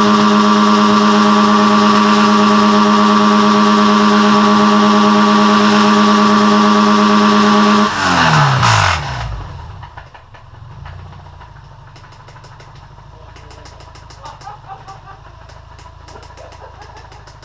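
A 2001 Subaru Forester's EJ25 2.5-litre flat-four, revved hard and held at a steady high RPM for about eight seconds. The revs then fall away quickly and it drops to a much quieter idle with faint ticking. This is a worn, oil-leaking engine that had already started ticking.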